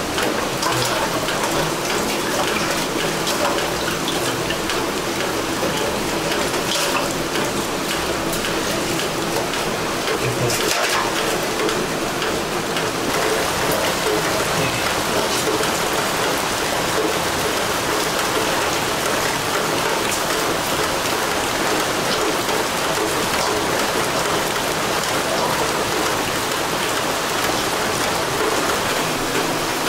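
Steady rain, an even patter with a few sharper drops.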